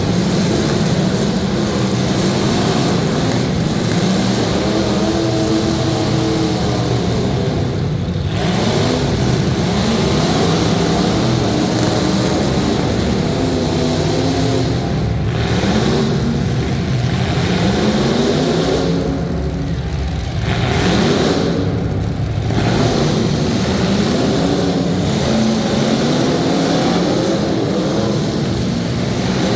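Several demolition derby cars' engines revving up and down over one another, rising and falling in pitch again and again.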